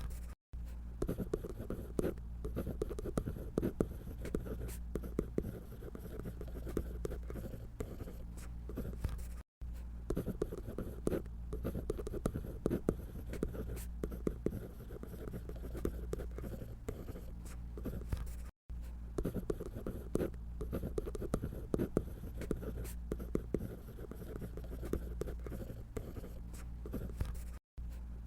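Dense, quick scratchy strokes of a drawing tool on paper over a steady low hum, dropping out briefly about every nine seconds.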